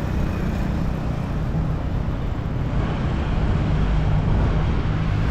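Steady low rumble and noise of a moving vehicle, heavy in the bass, with no clear rhythm or events.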